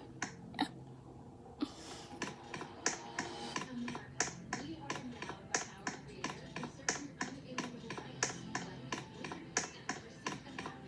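A rapid, uneven run of sharp clicks, several a second, over a faint steady low hum.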